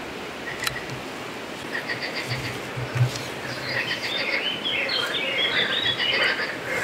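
Birds chirping over a steady hiss, with a dense run of quick rising-and-falling notes in the second half.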